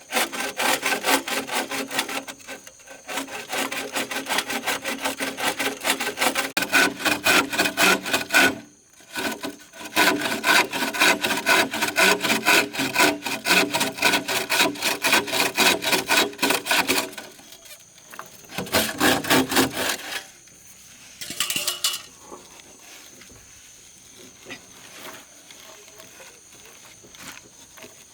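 Hand saw cutting wood in fast, even back-and-forth strokes, in three runs with short breaks about 8 and 17 seconds in. The sawing stops about 20 seconds in.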